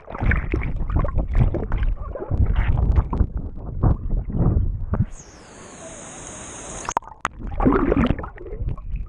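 Water sloshing and splashing close by, then a steadier rush of flowing water from about five seconds in, with another short burst of splashing near the end.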